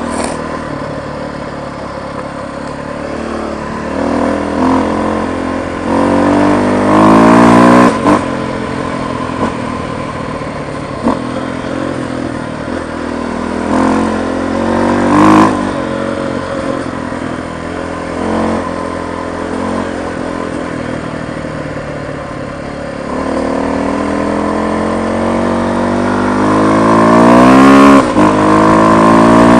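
Motorcycle engine running under way, revving up through the gears several times, with a long climb in pitch as it accelerates near the end.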